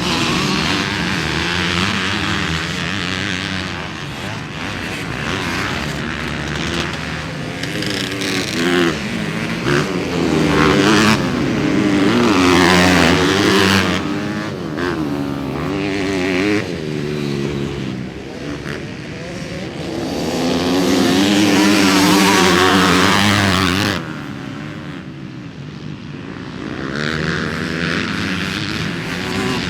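Motocross bike engines revving hard and shifting as the bikes race round a dirt track, pitch rising and falling constantly. The sound swells loudly twice as the bikes pass close, and drops off suddenly a little past two-thirds of the way through.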